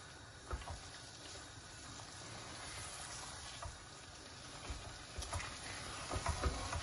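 Chicken korma in an onion-and-yogurt masala sizzling in a stone-coated pot as it is fried (bhuna) and stirred with a wooden spoon. The spoon knocks and scrapes against the pot now and then, more often near the end.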